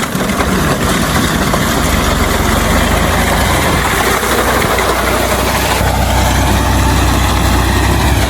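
Tractor engine running steadily with a deep rumble that grows stronger about six seconds in.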